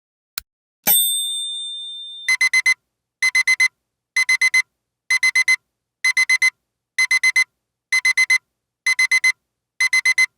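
A last timer tick, then a single ding that rings out for about a second and a half. Then a digital alarm clock beeps in quick groups of four, about one group a second, signalling that the countdown has reached zero.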